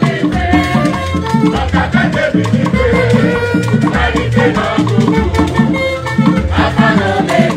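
Igbo ogene band music: percussion and rattles over a steady, repeating bass beat.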